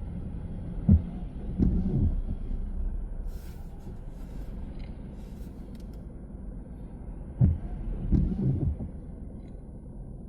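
Car cabin with a low steady road rumble, broken twice by a sharp knock followed a moment later by a rough double thud, like the wheels going over bumps in the road: once about a second in and again near the end.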